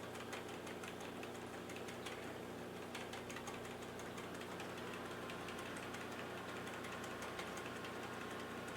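Desktop computer running with a steady low fan hum, under faint, irregular clicks and ticks.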